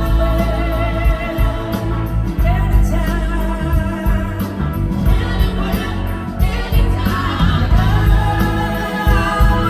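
Live band playing a soulful rock song with singing over a steady bass and sustained chords.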